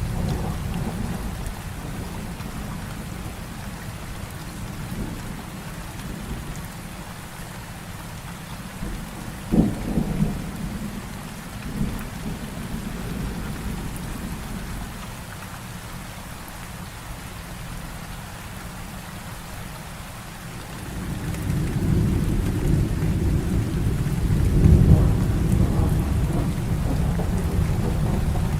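Heavy rain falling steadily in a thunderstorm. About a third of the way in there is a sharp thunder crack, with a smaller one just after. Near the end a long, deep roll of thunder builds and fades.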